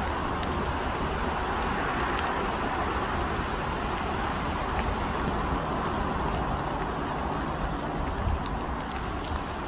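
Steady outdoor ambience: an even rushing noise with a low rumble beneath and a few faint ticks.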